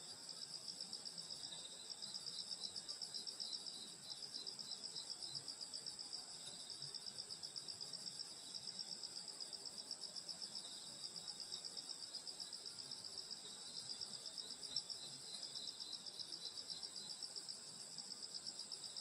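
A summer-night chorus of grass insects chirring steadily in rapid, high-pitched pulses, with a second, lower insect call joining in short runs of a few seconds, twice.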